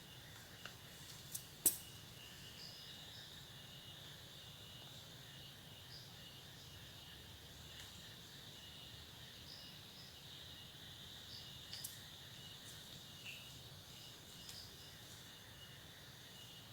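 Faint steady chorus of insects trilling high, typical of crickets in the forest. A few sharp clicks cut through it, the loudest a little under two seconds in and another about twelve seconds in.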